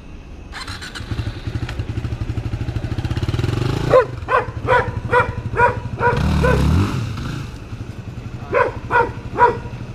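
Yamaha WR250R's 250 cc single-cylinder four-stroke engine running, its revs climbing over the first few seconds and rising again about six seconds in. A dog barks repeatedly from about four seconds in.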